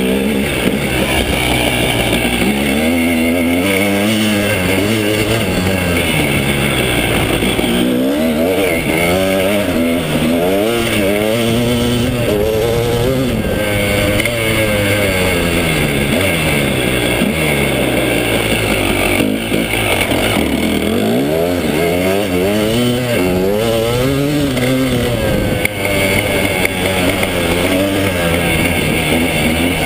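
KTM 300 EXC's single-cylinder two-stroke engine, heard close up from the handlebars while the bike is ridden. The revs climb and drop every second or two as the throttle is worked through the turns and gears, with a couple of brief dips when the throttle is shut.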